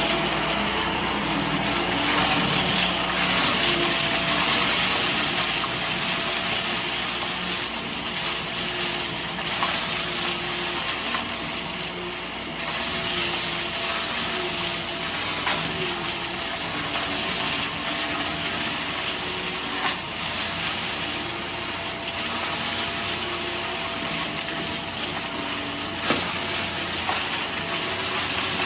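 Vacuum cleaner running steadily while picking up a spilled mess, with scattered small clicks of debris being sucked in and a sharper click about 26 seconds in.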